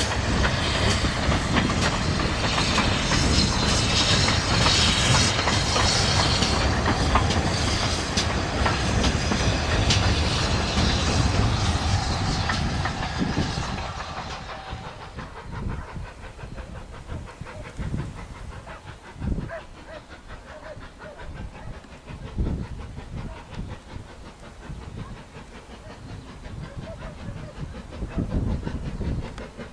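Steam-hauled train passing close by: loud running noise with hiss for roughly the first half, then dying away to scattered knocks of wheels on the rails.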